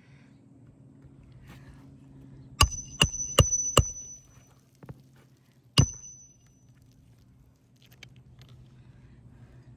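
Hammer striking a steel roofing snake to drive shingle nails from under an overlapping shingle: four quick ringing metal strikes about a third of a second apart, then one more a couple of seconds later.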